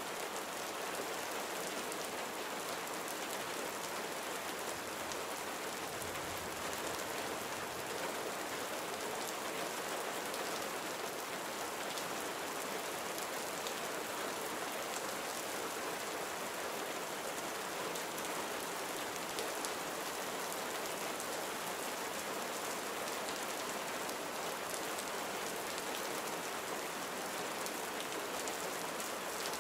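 Gentle summer rain falling steadily: an even hiss with a fine patter of drops, unchanging throughout.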